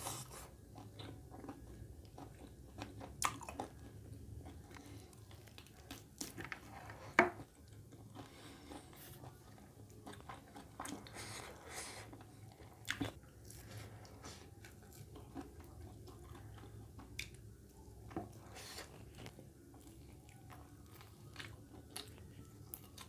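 Close-up mouth sounds of a person chewing and biting mouthfuls of mutton curry with rice, with scattered crunchy bites and smacks, the sharpest about seven seconds in and a quick pair about thirteen seconds in.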